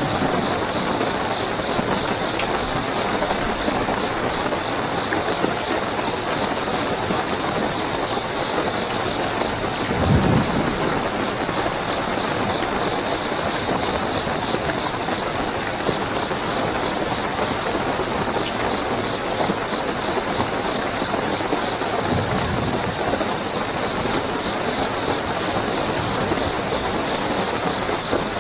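Steady heavy rainfall with a constant high chirping of night crickets over it. Brief low rumbles come about ten seconds in and again a little after twenty seconds.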